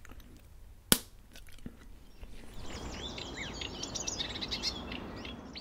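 A single sharp click about a second in, then birds chirping, a rapid run of short high chirps over a faint hiss, from about two and a half seconds on.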